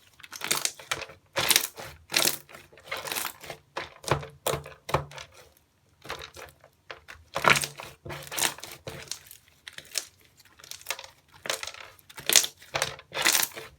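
Slime being squeezed and pressed by hand, giving crackly, crunching squishes in repeated bursts about once or twice a second.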